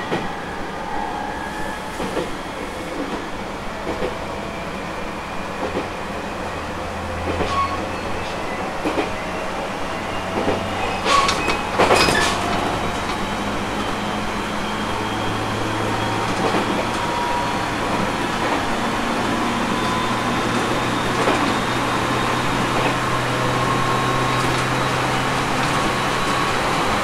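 Aoimori Railway 701 series electric train running, heard from the conductor's cab: scattered rail-joint clicks, a loud clatter about eleven to twelve seconds in, and a motor whine that slowly rises in pitch as the train gathers speed.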